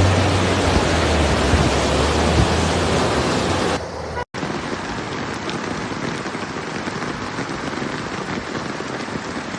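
Heavy rain as a steady hiss, over a low hum for the first few seconds; the sound cuts to a second, slightly quieter stretch of rain about four seconds in.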